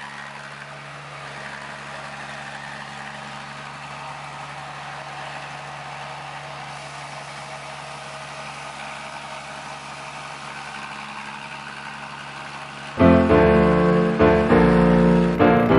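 A machine running with a steady hum, then piano music starts suddenly and much louder about thirteen seconds in.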